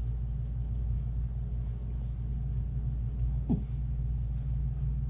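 Steady low hum under faint chewing of battered fried walleye, with a short 'mm' from one of the eaters about three and a half seconds in.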